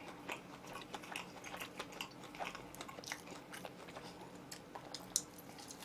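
Close-up chewing and biting of oven-roasted chicken: quiet, irregular small clicks and crunches of the mouth working on the meat.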